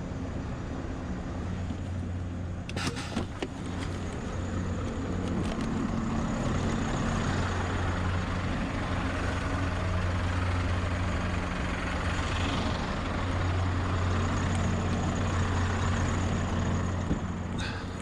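Scania V8 truck engine running at low revs, getting louder through the middle as the lorry moves up into its spot, then settling back near the end. A few short knocks about three seconds in.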